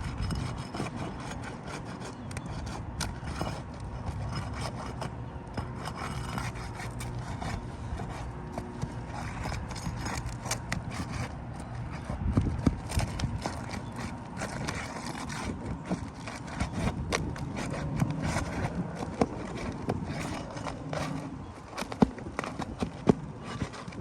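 Roof snake shingle-removal tool scraping and prying under asphalt shingles, a continuous scraping with many sharp clicks and knocks, loudest about halfway through and near the end.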